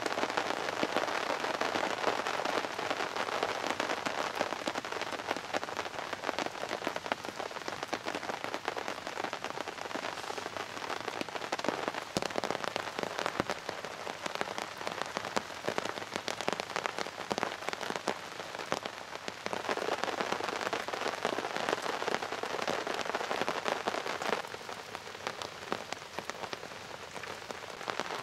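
Heavy rain falling on a tarp shelter and the forest floor, a dense hiss of drops. It goes softer for a stretch in the middle and again near the end.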